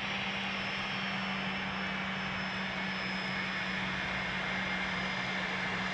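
Gulfstream IV's Rolls-Royce Tay turbofans running at low power while the jet taxis: a steady jet whine with thin high tones that drift slowly, over a low hum.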